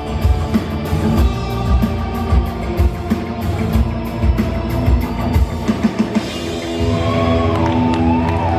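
Live rock band playing the closing bars of the song, with drum kit and guitar. The drumming stops about six seconds in and a held chord rings out.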